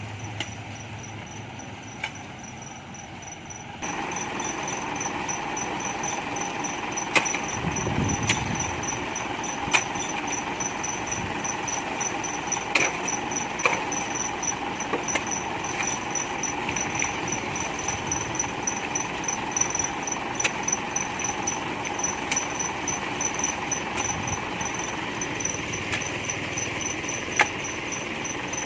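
Hyundai 5-ton dump truck engine running steadily, louder from about four seconds in, with a thin high pulsing chirp over it and scattered sharp clicks.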